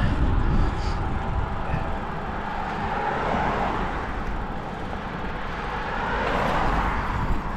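Wind rumbling on the microphone of a moving bicycle over steady road hiss, which swells twice as cars go by.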